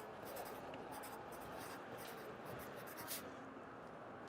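Pencil writing on paper: short scratchy strokes in irregular bursts, the last and loudest about three seconds in, over a steady hum of city traffic through an apartment window.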